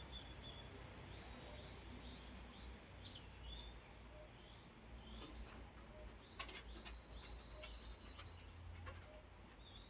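Small birds chirping faintly in woodland: a string of short, high notes, each dropping quickly in pitch, a few a second. A couple of sharp clicks about six and a half seconds in.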